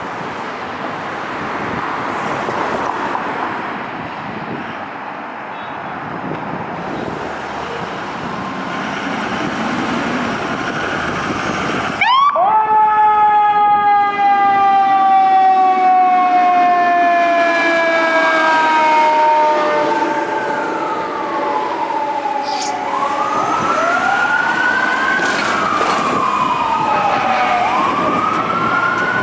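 Fire apparatus sirens on a response run. After about twelve seconds of traffic and engine noise, a loud siren starts suddenly, rises briefly and then winds slowly down in pitch, like a mechanical Q siren coasting down. From about two-thirds of the way in, electronic wail sirens rise and fall over and over.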